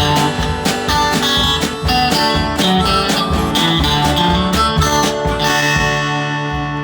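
A band with a prominent acoustic guitar plays the closing bars of a country song in a steady picked rhythm. About five and a half seconds in it lands on a final chord that rings for over a second and then stops.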